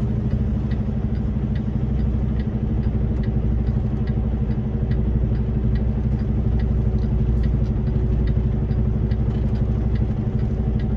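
Semi-truck diesel engine idling steadily, heard from inside the cab, with a faint regular ticking about once or twice a second.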